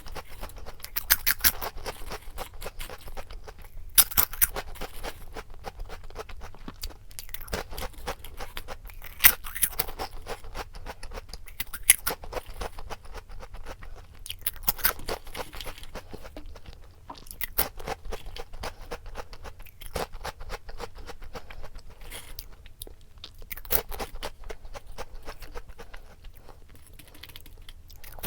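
Crunchy snack chips being bitten and chewed close to the microphone, with sharp crackling crunches in irregular clusters.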